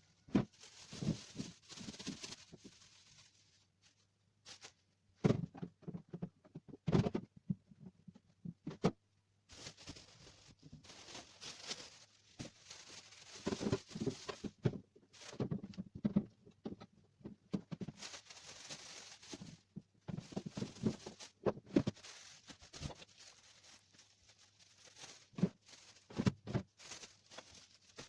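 Groceries being unpacked and put away in a refrigerator: irregular knocks of items and containers set on the shelves, with bursts of rustling plastic bags.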